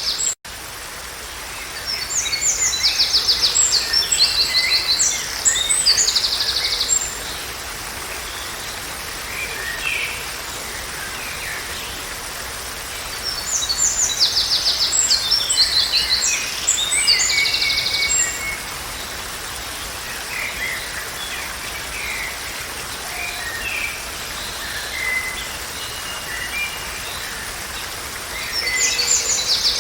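Songbirds singing: a loud, high phrase with a fast trill comes back about every twelve seconds, with softer chirps between, over a steady background hiss.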